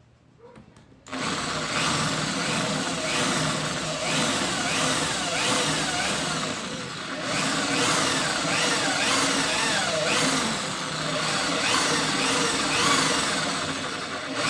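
Mini drill press starting about a second in and drilling holes in the metal burner nozzle. Its whine rises and falls over and over as the small bit bites and frees.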